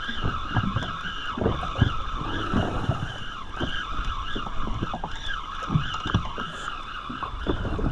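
Fishing reel being cranked, its gears making a wavering whine that rises and falls with the cranking while a fish is reeled up, with short low knocks of handling along the way.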